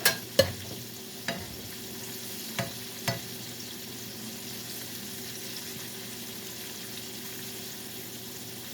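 Salmon frying in hot oil in a pan with a steady sizzle. A few sharp knocks in the first three seconds, the loudest two right at the start.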